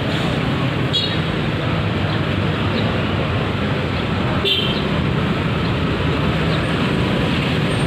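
Steady road traffic noise, a continuous wash of passing vehicles, with a couple of brief clicks.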